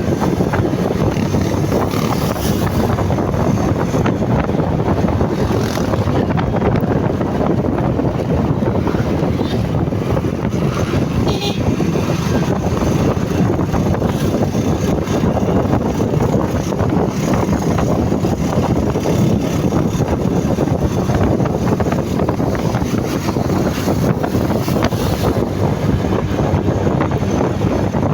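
Steady wind rush buffeting the microphone with the drone of a moving motorcycle and its road noise underneath, unbroken throughout.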